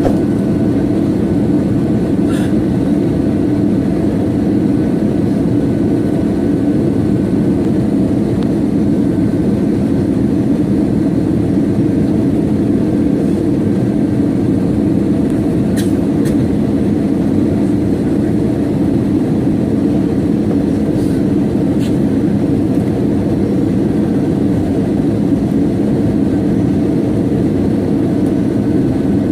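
Steady cabin noise of an airliner in flight: an even low drone of engines and rushing air, with a few faint clicks.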